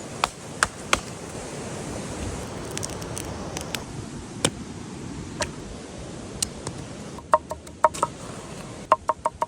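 Sharp clicks and knocks at irregular intervals over a steady rushing hiss, with a quick cluster of ringing knocks near the end.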